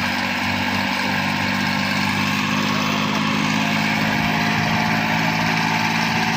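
Diesel tractor engine running steadily at working speed, with an even, unchanging engine note.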